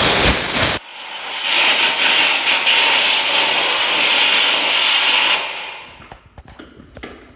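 Compressed air from a workshop compressor's blow gun, hissing in two blasts: a short, very loud one, then a longer hiss of about four seconds that tails off. It is blowing dry a petrol-washed shock-absorber part. A few faint clicks come near the end.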